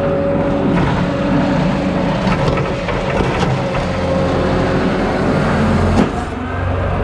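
Skid steer's diesel engine running under load with a steady hydraulic whine, and one sharp clank about six seconds in.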